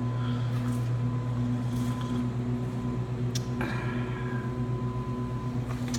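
Steady low machine hum, with a faint click a little past halfway.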